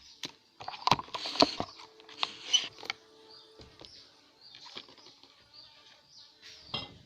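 Packaging of an instant cup noodle being handled, with crinkling and sharp plastic clicks in quick bursts during the first few seconds, then fainter rustling.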